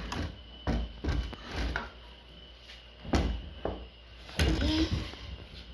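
A series of irregular knocks and bumps, about half a dozen, the loudest a little after three seconds in and a longer clatter about four and a half seconds in.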